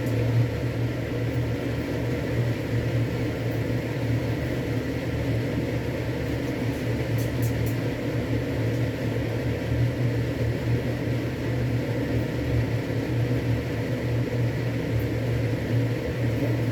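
Steady mechanical hum, like a fan or kitchen appliance running, with a faint high steady tone and a few light clicks about halfway through.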